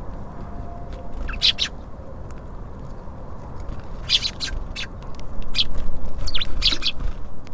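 Small songbirds at a feeder giving short, sharp high chirps in scattered clusters, over a steady low rumble that swells briefly near the end.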